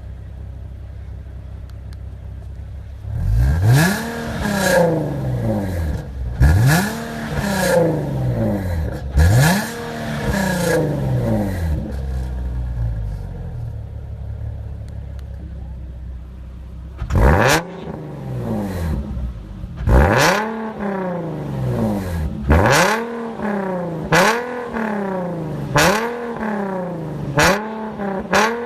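Nissan 370Z's 3.7-litre V6 idling, then revved hard in repeated blips, each rising sharply and falling back to idle. There are three spaced revs, then a pause at idle, then a quicker run of about seven revs near the end.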